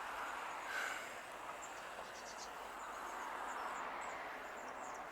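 Steady outdoor background hiss with scattered faint, short high-pitched chirps.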